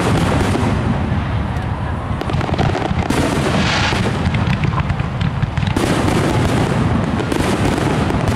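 Aerial fireworks shells bursting one after another in a loud, continuous barrage, with dense crackling over the booms.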